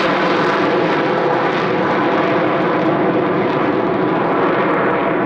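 Blue Angels Boeing F/A-18 Super Hornet jets flying, a loud, steady jet noise that holds without a break.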